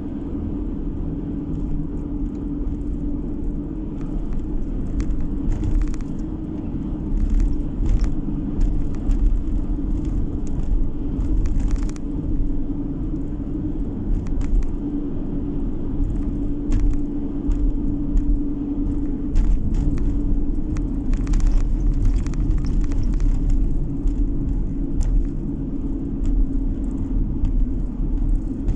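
Car driving on the road, heard from inside the cabin: a steady low rumble of road and engine noise with a constant hum, and scattered small knocks and rattles.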